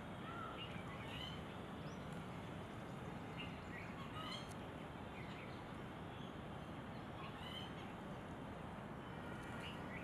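Scattered short chirps and whistles of small birds over a steady background hiss of woodland ambience.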